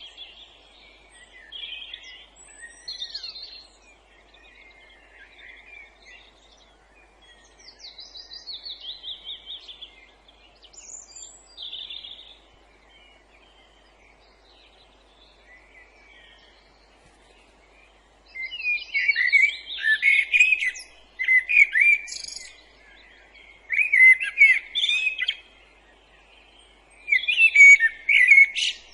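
Several songbirds singing in woodland, with varied, fairly quiet chirps and whistled phrases. From about two-thirds of the way in, a much louder bird sings repeated rich, rapid song phrases, four bursts of a second or two each.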